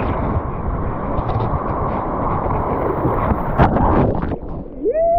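Strong wind buffeting the microphone over a steady rumble. Near the end comes a long hooting call that rises, holds and then falls away.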